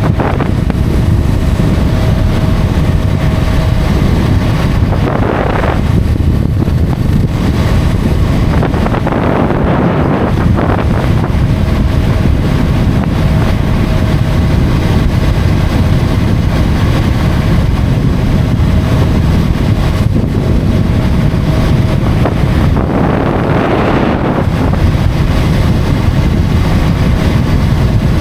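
Wind buffeting the microphone over a motorcycle cruising steadily at highway speed, with a faint steady engine tone. There are three brief swells of rushing noise, about 5, 9 and 23 seconds in.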